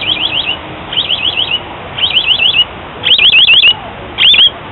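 A bird calling in five short, rapid warbling phrases, about one a second, each a quick run of wavering high notes that sounds like an electronic alarm; the last two phrases are the loudest.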